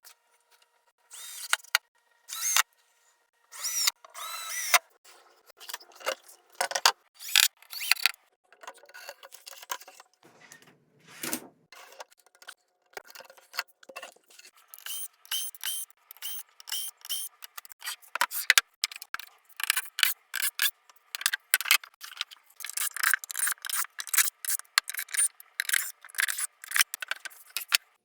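Hand and power tools working on wood: an irregular run of short, sharp clicks, knocks and taps, with a brief lower buzz about ten seconds in.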